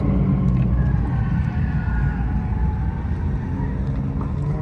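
Straight-piped Pontiac G8 GT's V8 exhaust running steadily at low speed, a deep even drone.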